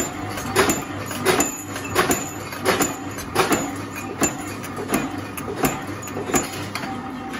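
Mechanical punch press shearing 12 mm round steel bar, a sharp clack about every 0.7 s over the steady hum of the running machine.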